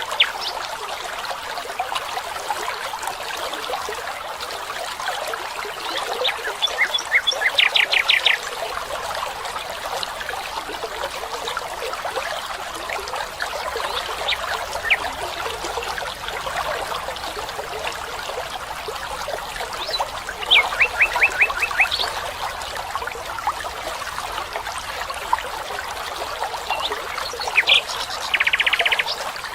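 A forest stream trickling steadily, with a bird calling three times in short runs of rapid high repeated notes.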